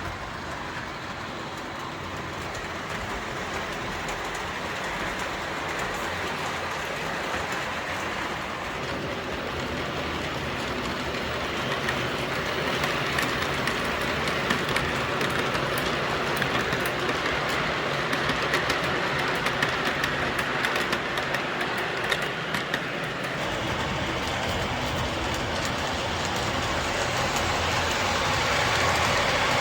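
O gauge model train running on the layout's track: a steady rolling whir with rapid ticking of wheels over the rail joints through the middle, getting gradually louder.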